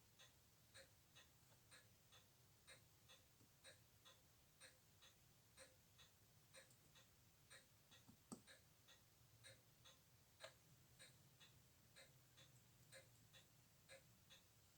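Faint, regular ticking of a timepiece, about two to three ticks a second, with one sharper click about eight seconds in.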